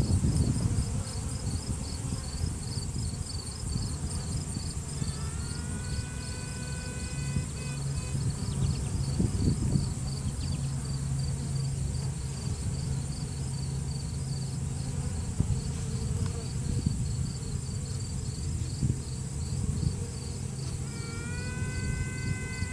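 Honeybee colony humming steadily on an open frame while a virgin queen pipes twice, each a clear trumpet-like note starting with a slight rise, the second breaking into short toots. A virgin queen sounds off like this to assert her dominance.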